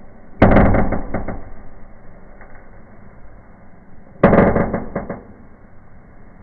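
Indoor tabletop firework (a 'Bienenvulkan' fountain) going off in two sudden crackling bursts about four seconds apart, each a rapid cluster of pops that dies away within about a second.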